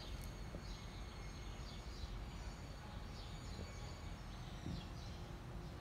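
A bird repeating short, falling chirps about once a second over a steady low outdoor rumble.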